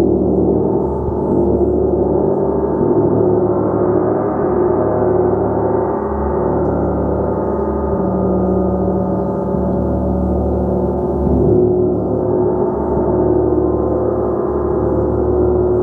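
Gong played continuously in a sustained wash: many overlapping ringing tones held without pause, swelling and easing slightly in loudness.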